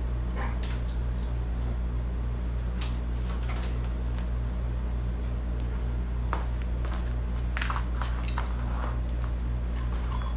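Scattered light knocks and clinks of metal being handled as the removed lawn tractor engine is lifted and set down, over a steady low hum.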